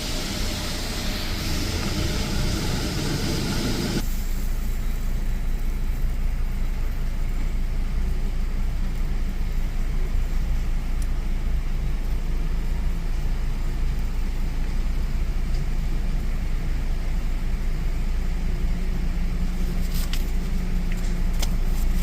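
A car engine idling with a steady low hum. A loud rushing hiss over it cuts off suddenly about four seconds in, and a few sharp clicks come near the end.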